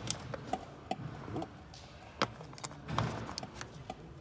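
Irregular light clicks and knocks, about eight of them, from parts being handled on a removed engine.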